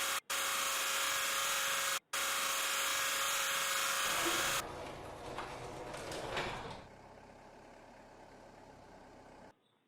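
Small electric motor whirring steadily with a high whine, cutting out for an instant about two seconds in and stopping about halfway through; softer rattling and handling noise follows, fading to a faint hum.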